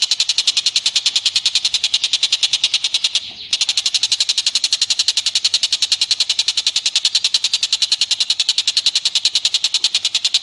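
A rapid, monotonous series of sharp, high call notes, about eleven a second, repeated without change, with one brief pause about three seconds in. It is an animal call from a bird-training recording.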